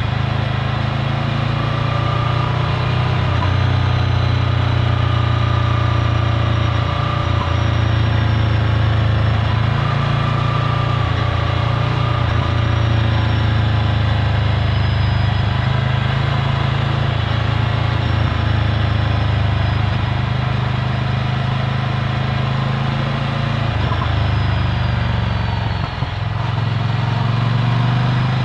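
Ducati Scrambler Full Throttle's air-cooled L-twin engine running through its Termignoni exhaust at low, fairly steady revs, the note wavering slightly. The sound briefly dips near the end.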